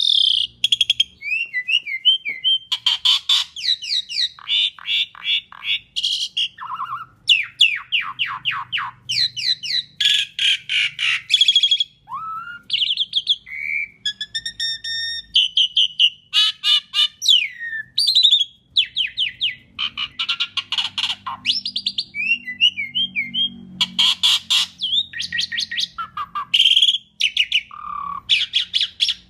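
Asian pied starling singing continuously, phrase after phrase. Its song is fast trains of rattling clicks and chatter mixed with short gliding whistles.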